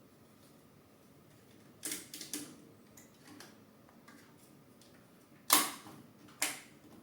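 Sharp clicks and knocks of 3D-printer parts being handled and fitted together: two close together about two seconds in, a few small ticks, then a louder pair near the end, the first of these the loudest.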